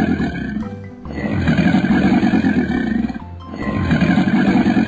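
Animal growl sound effect standing for a crocodile, repeated: long, rough growls of a second and a half or more, about every two and a half seconds, over children's background music.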